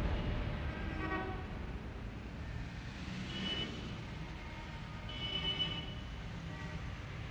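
Steady low traffic rumble with a few brief, faint horn-like toots: about a second in, around three and a half seconds, and a slightly louder one around five seconds.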